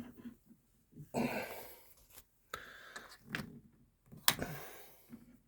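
A man breathing out hard with effort while trying to turn a stiff quarter-turn water supply valve by hand, with a few sharp clicks and knocks, the loudest about four seconds in.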